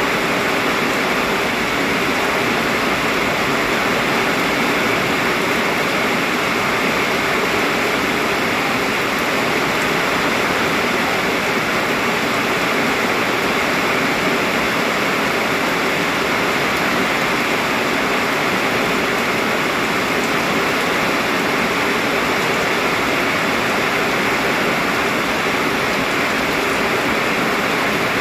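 Very heavy rain pouring down steadily, a dense, even rush of water with no letup.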